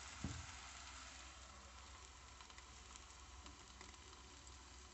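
Eggplant slices frying in a little oil in a pan: a faint, steady sizzle, with one soft knock just after the start.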